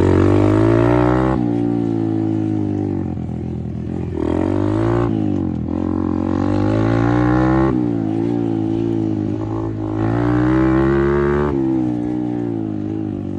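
Apollo RFZ 125 dirt bike's single-cylinder four-stroke engine under riding, revving up and easing off in about four surges, its pitch rising and falling with the throttle.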